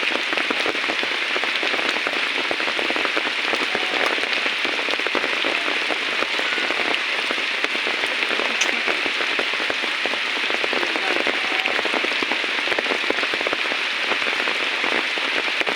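Heavy rain falling steadily: a dense, even patter of drops on surfaces.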